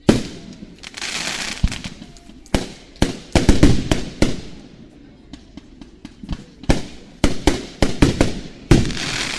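Fireworks display heard close to the launch site: a rapid run of sharp shell bursts with crackling hiss between them. The bangs come thickest and loudest about three to four seconds in.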